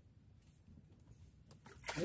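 Near silence: faint low background hum with a couple of soft clicks near the end, just before a man starts talking.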